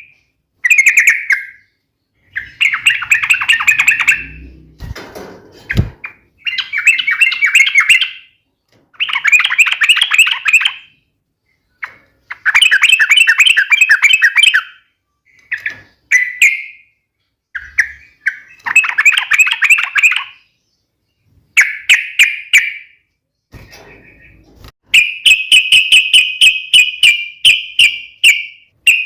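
Yellow-vented bulbul (trucukan) singing a sharp, rapid chattering song in bursts of a second or two with short pauses between them. Near the end it switches to a steady run of evenly spaced sharp notes, about three or four a second.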